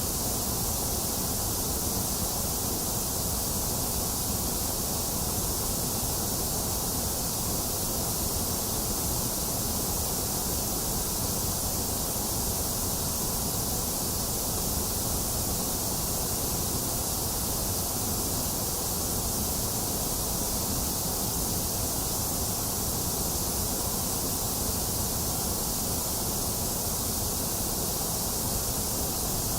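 Box fan running together with steady rain, blending into one constant, unchanging hiss.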